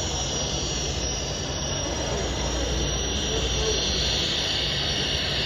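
Steady din of a crowded exhibition hall: a constant roar with indistinct background chatter and no distinct events.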